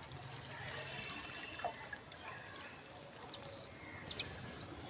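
Water trickling steadily, with a few short, high house sparrow chirps in the second half.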